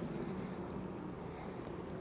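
Electric unicycle riding: steady rolling and motor noise. Over it a fast, high-pitched trill of ticks stops about half a second in.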